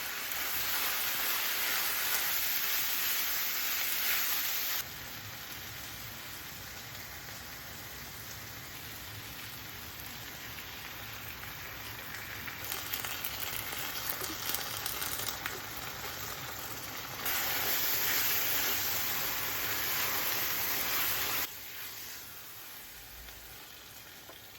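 Food sizzling in a hot frying pan, a steady hiss that jumps louder and quieter at several points and fades near the end.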